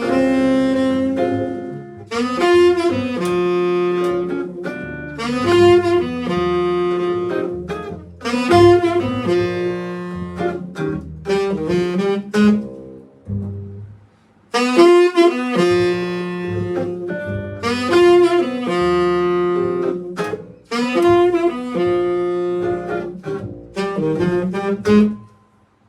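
Band playing a jazz tune with saxophone in the lead, in phrases broken by short pauses; the music stops just before the end.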